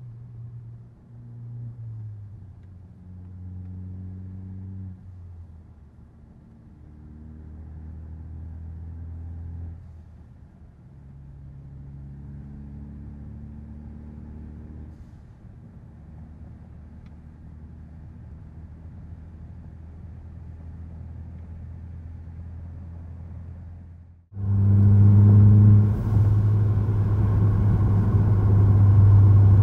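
Ford Focus ST's turbocharged engine heard from inside the cabin while cruising, its note climbing and then dropping back several times as it accelerates through the gears. About three-quarters of the way through, the sound cuts out for a moment and returns much louder, as a heavy low drone with a rushing noise over it.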